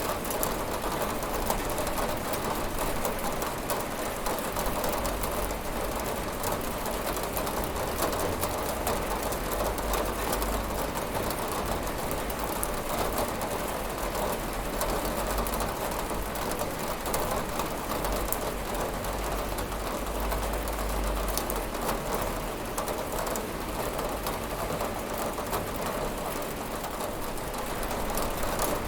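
Steady heavy rain pattering on a window pane, with a low rumble underneath.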